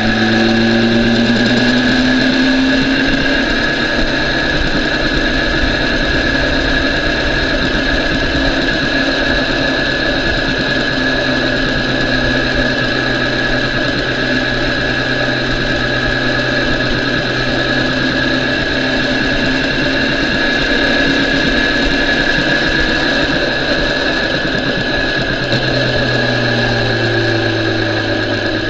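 BMW S1000RR inline-four sport-bike engine running at steady, moderate revs while cruising slowly. The pitch rises slightly about a second in and drops near the end.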